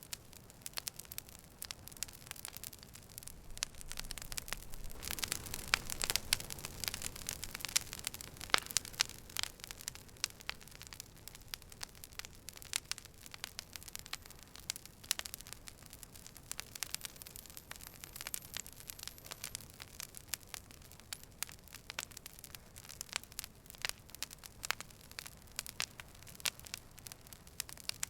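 Campfire burning, wood crackling and popping in quick irregular snaps over a soft hiss, busiest a few seconds in.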